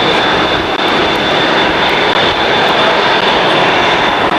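Jet aircraft engines running loud and steady, with a constant high whine over the engine noise.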